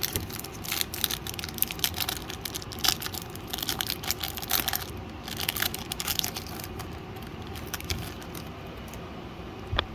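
Foil wrapper of a Pokémon card booster pack crinkling and tearing as it is opened, a run of crackles over the first seven seconds or so, then quieter handling and a single click near the end.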